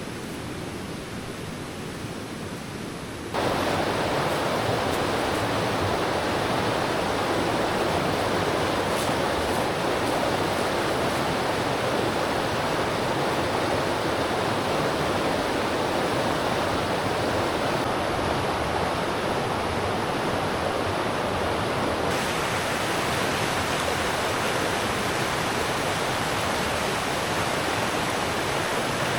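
River water rushing steadily, jumping suddenly louder about three seconds in.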